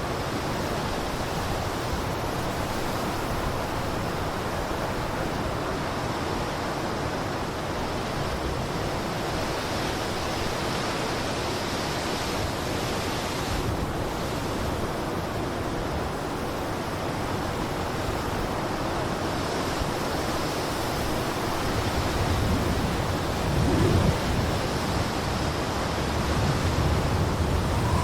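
Blizzard wind blowing in a steady rush, with gusts swelling louder about two-thirds of the way through and again near the end.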